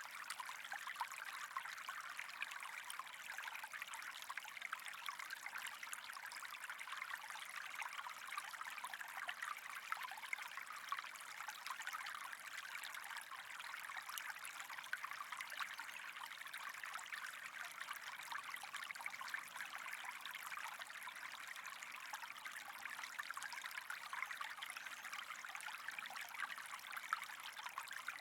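Steady trickling of running water with a fine crackle, unchanging throughout.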